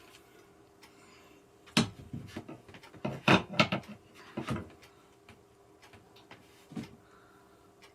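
Gaming chair parts being handled during assembly: a scatter of sharp knocks and clatters, the busiest cluster about three and a half seconds in, over a faint steady hum.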